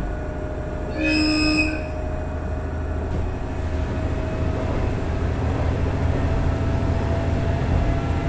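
Running noise of a KiHa 110 series 200-subseries diesel railcar with its Cummins DMF14HZA engine, with a short horn blast about a second in. After the horn the running noise grows slowly louder and a tone in it climbs gradually in pitch.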